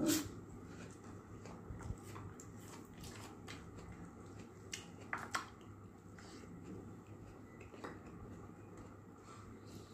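Close-up chewing of a crunchy raw vegetable, with sharp crunches loudest at the start and a few scattered clicks after, over a faint steady low hum.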